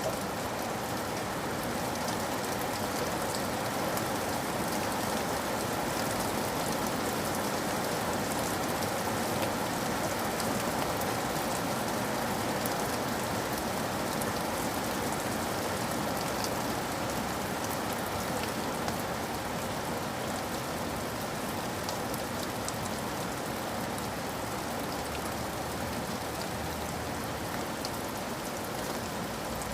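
Steady rain falling, with a dense patter of individual drops ticking over an even wash of noise.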